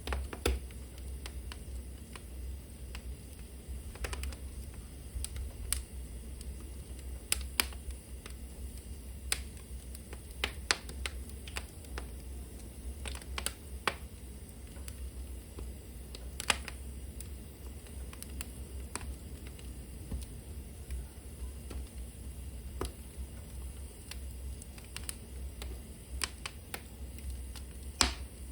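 Wood fire burning in a hearth, crackling with sharp irregular pops and snaps over a low steady rumble.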